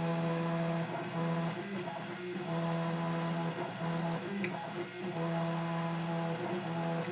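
ITL 9700A computerised key-cutting machine running its cut cycle: a steady motor hum at one pitch that stops and starts in stretches of about a second as it moves between cut positions. The key is already cut, so the cutter takes off no metal.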